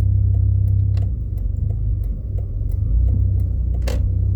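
Jeep Grand Cherokee turn signal ticking steadily, about three ticks a second, over the low rumble of the engine and tyres in the cabin, with one louder click near the end.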